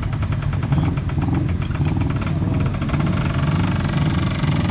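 Engine idling steadily with an even, pulsing rumble.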